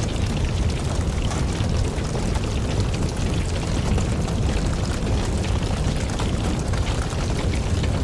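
Campfire of burning wood logs crackling, with a steady low rumble of flames under many small quick pops and snaps.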